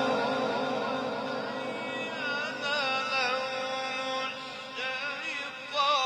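A man reciting the Quran in the drawn-out melodic tajweed style. A long held note with a wavering pitch fades over the first second or so, then winding, ornamented phrases follow and grow louder near the end.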